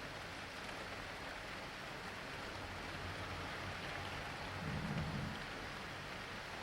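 Steady rain falling, with a low rumble of thunder underneath that swells louder about five seconds in.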